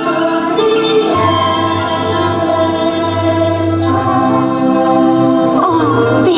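Choir singing long held chords over orchestral music, the soundtrack of a fireworks show; the chord changes about a second in, again around four seconds, and near the end.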